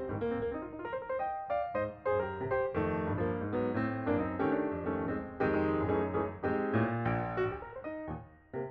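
Background piano music, a run of notes played at a steady pace.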